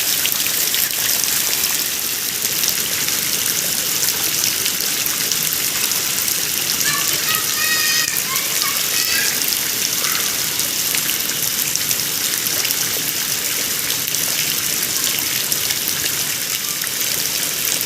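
Heavy rain falling steadily, a dense hiss of drops pouring down on the road and roofs.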